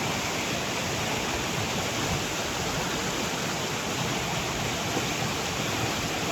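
A storm-swollen river in flood, its water rushing heavily and steadily.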